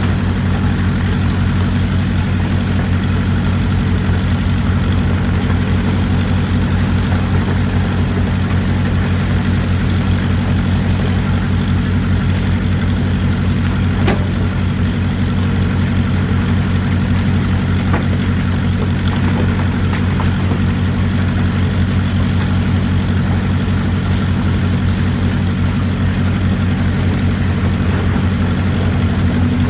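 Excavator's diesel engine running steadily at a low, even idle, with a couple of faint clicks about halfway through.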